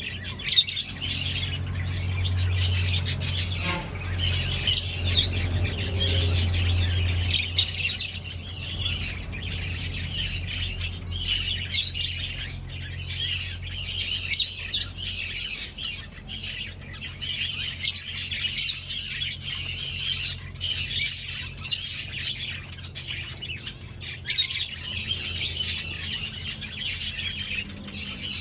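Many aviary finches chirping and calling at once, a dense, unbroken chorus of short high calls. A low steady hum runs underneath for the first half and then fades.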